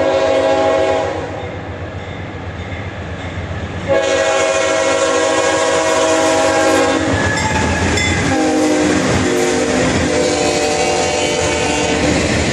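Freight train crossing a bridge, its horn sounding long blasts of several tones at once over the steady rumble of the cars. One blast ends about a second in, another runs from about four to seven seconds, and a third starts about eight seconds in.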